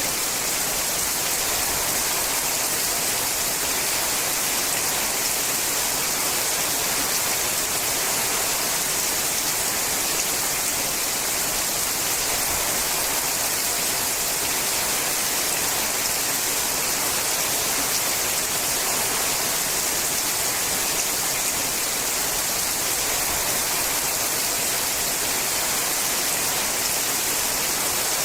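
Steady rain falling on a sheet-metal roof: a dense, even hiss of many drops that keeps the same level throughout.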